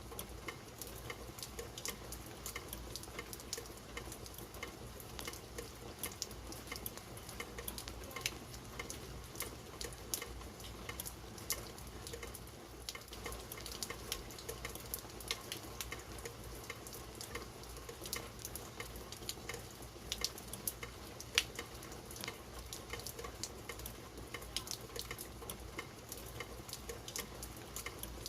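Steady rain falling, with many close drops ticking sharply on hard surfaces.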